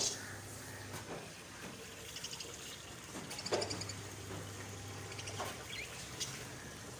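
Small birds chirping in short, rapid high trills, a few separate bursts, over a steady faint background noise.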